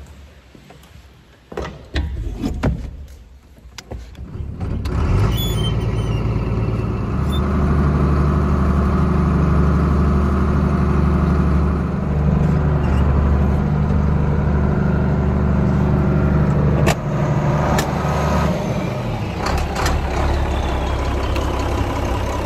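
A few scattered knocks and clicks, then about five seconds in a tractor engine comes on and runs steadily at a low, even note.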